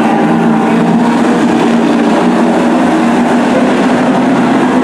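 Race trucks' engines running on a short oval track: several engine notes overlapping in a loud, steady sound with no pause.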